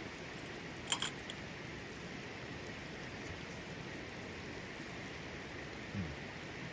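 Steady hiss with a sharp double click about a second in and a soft low knock near the end.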